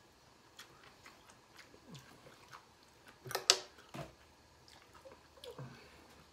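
A man chewing a mouthful of food, with faint scattered clicks of a fork and a sharper clink of cutlery on a metal platter about three and a half seconds in.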